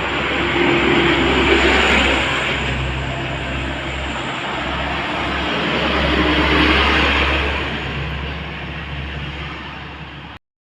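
Heavy road vehicles, trucks or buses, passing close by: a low engine drone under loud tyre and wind rush that swells twice, about a second and a half in and again about six seconds in, then fades away.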